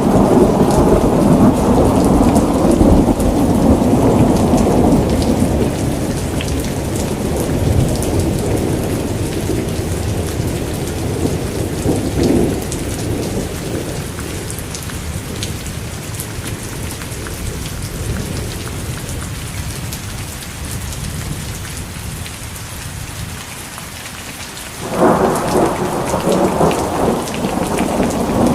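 Steady rain pattering, with thunder rumbling low that slowly dies away over about twenty seconds, then a new loud peal of thunder breaks in suddenly near the end.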